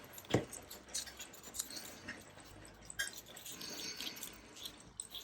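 Quiet handling of paper and craft supplies on a desk: a few light taps and clicks with soft paper rustling.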